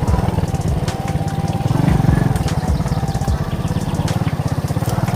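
Alpha moped's single-cylinder four-stroke engine running steadily under way, with scattered clicks and rattles over the engine note.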